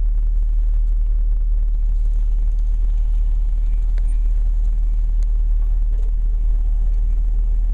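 Steady low rumble of a car driving, with a faint hiss over it.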